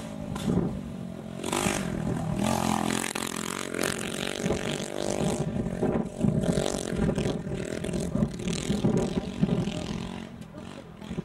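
Off-road motorbike engine revving hard and accelerating across a dirt track, its note rising and falling again and again as the rider works the throttle.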